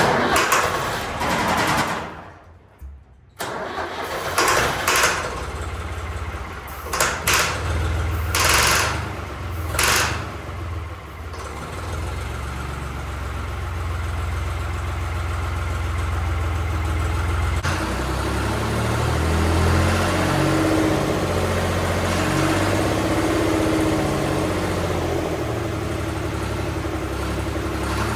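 Long 360 tractor's diesel engine being started: it runs in loud uneven bursts, stops briefly about two seconds in, then surges and stumbles several times as air works out of the fuel system. From about eleven seconds in it settles into a steady run.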